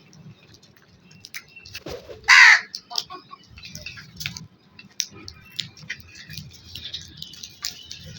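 A crow cawing: one loud, harsh caw a little over two seconds in, with short faint clicks around it.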